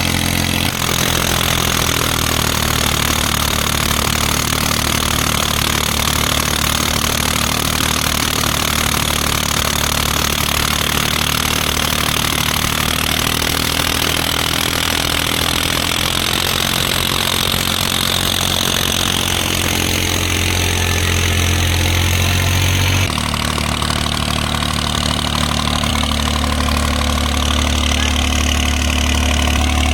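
Tractor diesel engine running steadily at low speed, a New Holland 3630 Super Plus. Its sound changes abruptly about three-quarters of the way through, and the low hum grows stronger after that.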